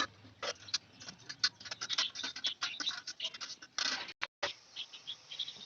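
Quick scratching and rustling of hands working with food, with many short sharp clicks.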